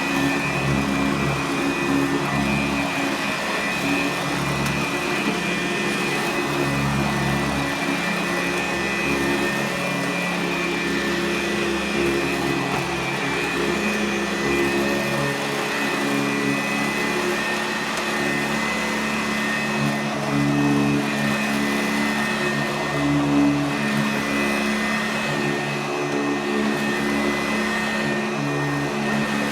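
Sanitaire commercial upright vacuum running steadily with a high motor whine, its belt-driven brush roll spinning; a lower hum underneath wavers in pitch every second or two.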